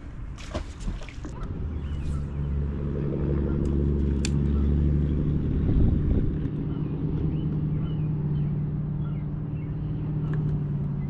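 A boat's motor running with a steady low hum that builds up over the first few seconds and then holds. A few clicks and knocks come just before the hum starts.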